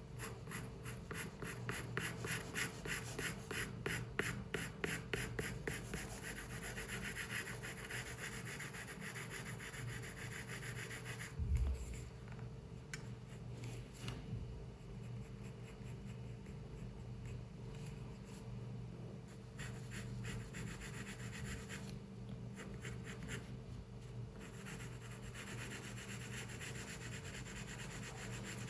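Pencil scratching on paper: quick back-and-forth strokes for the first several seconds, then slower, softer strokes. A single dull thump about eleven seconds in, under a steady low hum.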